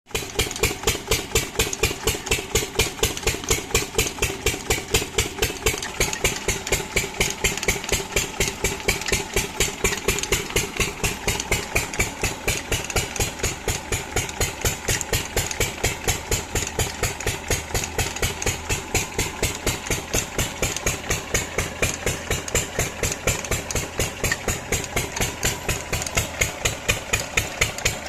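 12 HP Lister diesel engine driving an irrigation water pump set, running steadily with a rapid, evenly spaced exhaust beat.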